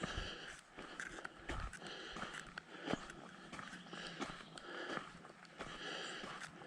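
A hiker's footsteps on a trail with heavy breathing, each breath swelling and fading about once a second between short scuffing steps.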